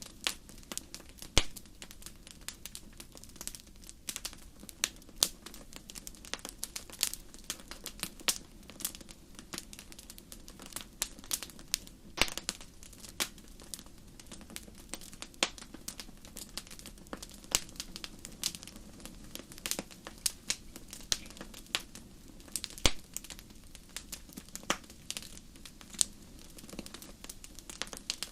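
Wood fire in a fireplace crackling: irregular sharp pops and snaps, several a second, with a few louder ones, over a steady low rumble of the burning fire.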